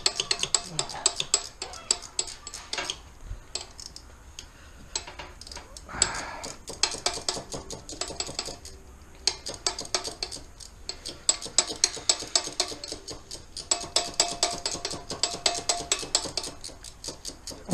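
Ratchet wrench clicking rapidly as it turns a bolt on the engine, in several runs with short pauses between strokes.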